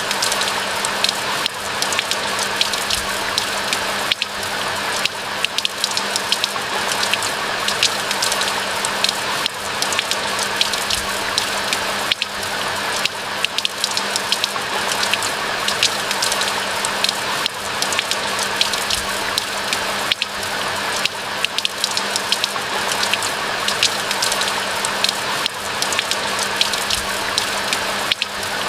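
Steady rain falling in a pine forest: an even hiss with a dense patter of close raindrop ticks, over a faint steady low hum.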